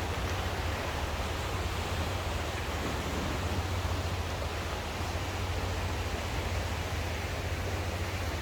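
Sea waves washing on the shore, a steady rushing sound with a strong low rumble underneath and no distinct breaks.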